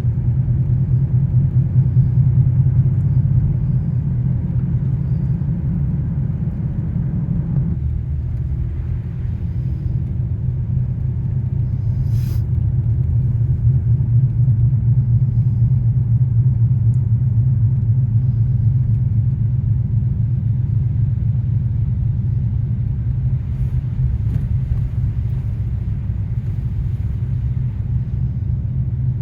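Steady low rumble of a car driving slowly, about 20 mph, heard from inside the cabin. A single brief click about twelve seconds in.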